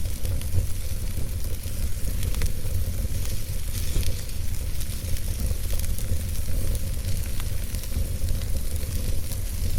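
Wood fire burning in a fireplace: logs crackling and popping irregularly over a steady low roar of the flames.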